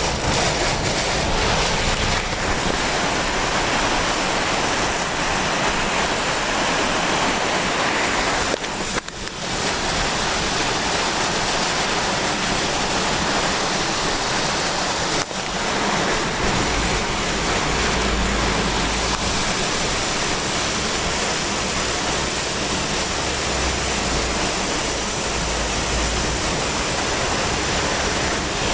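Torrential rain and violent downburst wind of a severe thunderstorm: a loud, unbroken rush of noise, with a deeper low rumble joining from about halfway.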